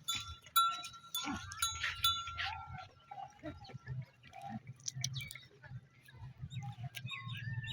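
Goats bleating now and then from the herd.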